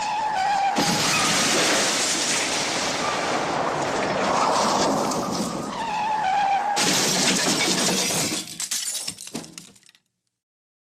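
Cartoon smash sound effect: a long crash of glass shattering and debris breaking, with a brief tone heard twice, dying away near the end.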